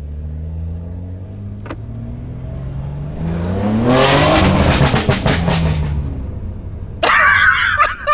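BMW M3 Competition's twin-turbo straight-six, tuned to stage 2 with a Scorpion downpipe and catback exhaust, revving up under hard acceleration, its pitch climbing for about four seconds to a loud peak before the throttle eases off. A sudden loud noisy burst comes near the end.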